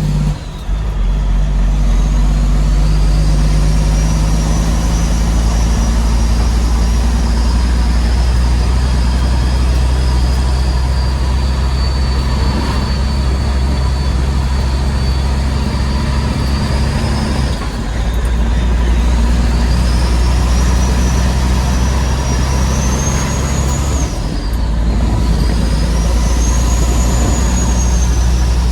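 Heavy diesel dump truck engine pulling under load, with a turbo whistle that rises and falls over a steady low engine note. The pull breaks off briefly three times, and each time the whistle climbs again.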